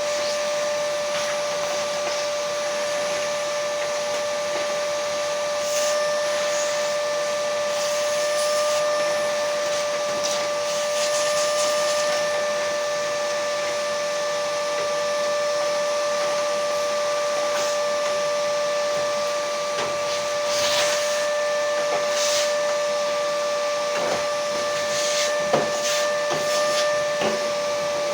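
A small electric motor running steadily with a constant whine and a hiss of rushing air, broken by a few short knocks and rustles in the last few seconds.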